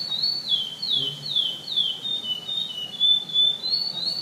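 Curió (chestnut-bellied seed finch) singing a continuous song of clear high whistles in the 'canto pardo' style judged in Brazilian song tournaments. It is mostly quick downward-sliding notes, about two to three a second, with a few level notes in the middle.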